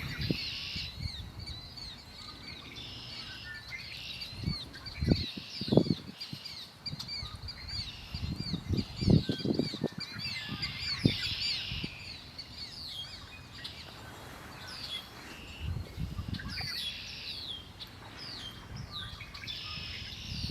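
Several songbirds chirping and trilling with short, high, repeated notes. Low thumps break in at a few points and are louder than the birds.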